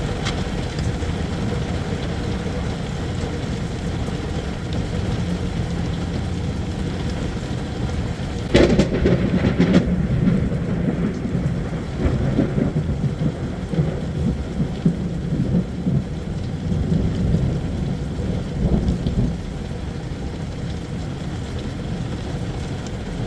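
Steady rain with a loud, close clap of thunder about eight and a half seconds in that rumbles on for around ten seconds.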